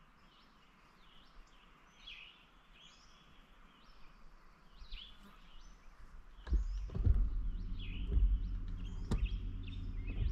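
Small songbirds chirping repeatedly. About two-thirds of the way in, a low steady hum sets in underneath, with a few sharp knocks.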